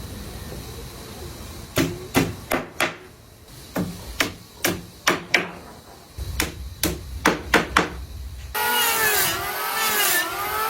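Hammer striking wood, about fifteen sharp blows in uneven groups. About eight and a half seconds in, a machine whine starts abruptly and wavers up and down in pitch.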